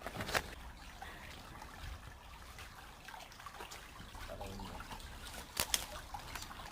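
Creek water trickling steadily, with two sharp clicks, one about a third of a second in and one near the end.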